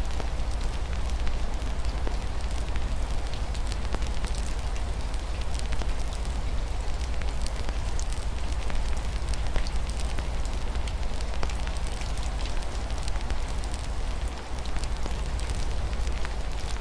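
Wood fire in a fireplace crackling with many small irregular pops over a steady hiss of rain and a low rumble.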